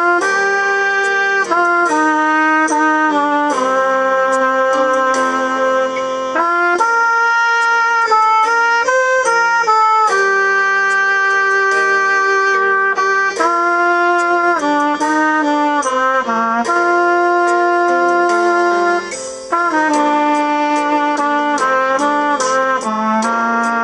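Solo saxophone playing a slow melody of long held notes over a backing track with a light, steady beat, with a brief break for breath about three-quarters of the way through.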